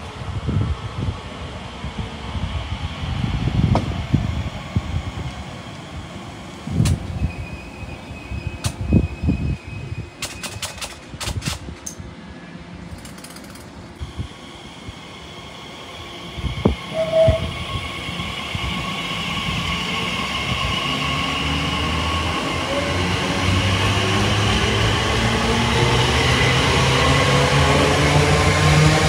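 Gusts of wind on the microphone, then a train approaching on the line, its running noise growing steadily louder through the second half.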